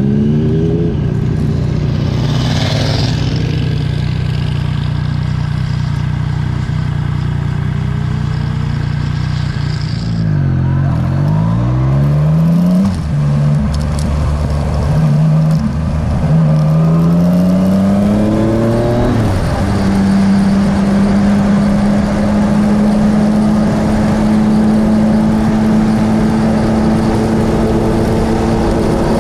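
Motorcycle engine on the move, heard from the bike itself. Its pitch climbs and breaks several times as it pulls up through the gears, eases off and picks up again about ten seconds in, then settles to a steady cruise for the last third.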